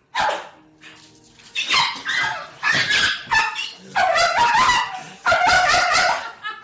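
A dog barking and yipping repeatedly, in a run of about eight calls; the later ones are drawn out to about a second each.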